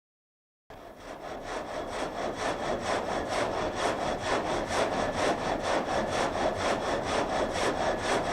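Vertical frame saw of a water-powered sawmill cutting through timber: an even, rhythmic rasping of about three strokes a second, fading in just under a second in.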